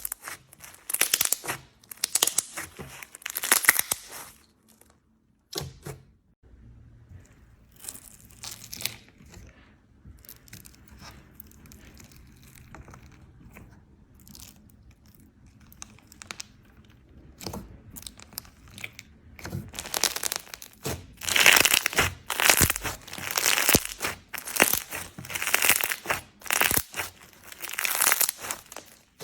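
Slime being squished and stretched, crackling and crinkling in repeated bursts. It is quieter through the middle, then the bursts come back louder for the last third.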